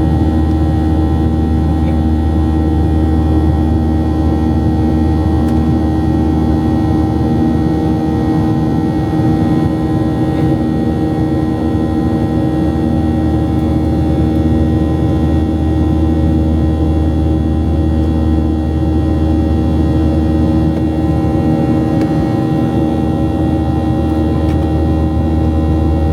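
Steady in-flight cabin noise of a Boeing 737-700: a low, even rumble from the engines and airflow with a constant hum of several steady tones.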